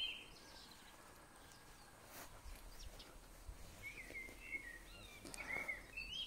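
Faint songbird chirps and short warbling phrases, a few near the start and more in the last two seconds, over quiet outdoor background.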